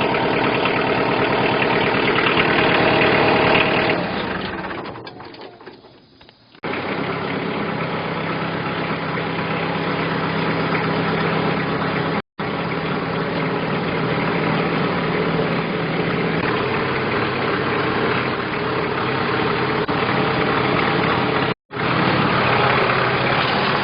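Daedong LX470 tractor's diesel engine running steadily, now that its faulty starting safety switch connector has been bypassed with a direct wire. About four seconds in the sound dies away, then it comes back suddenly and runs steadily on.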